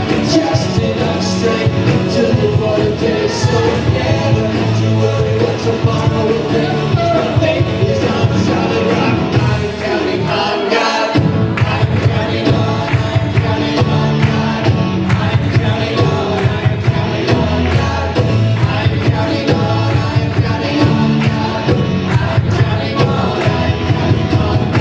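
Live worship band, with drums, bass and guitars, playing a rock-style song while voices sing along; the bass drops out for a moment near the middle, then comes back.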